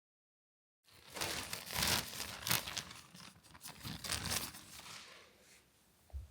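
Rustling and crinkling of something being handled, in several bursts with a few soft knocks, dying down after about five seconds.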